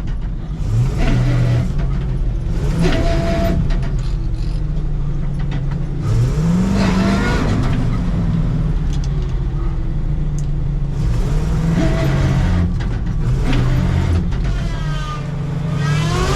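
Diesel engine of a heavily laden dump truck revving up and easing off several times as it strains to pull the stuck truck free.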